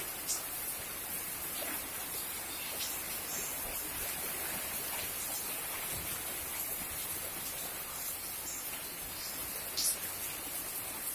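Rain falling as a steady, even hiss, with a few brief sharp ticks mixed in.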